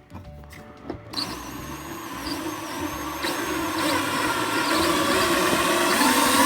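A power tool's electric motor starts about a second in and runs steadily for about five seconds, getting louder, with a faint high squeal over it, then stops suddenly.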